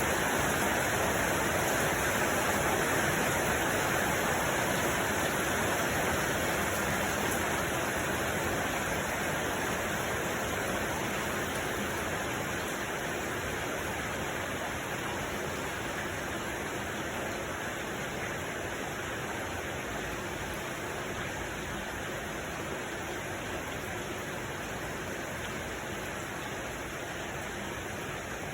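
Steady rushing noise with no distinct events, of the kind made by falling water or a white-noise track. It eases gradually quieter over the stretch.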